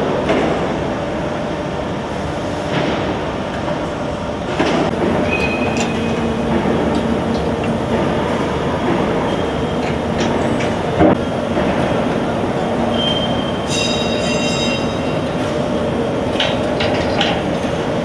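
Automatic HVAC duct production line machinery running: a steady mechanical rumble with a few brief high-pitched metallic squeals and one sharp knock about eleven seconds in.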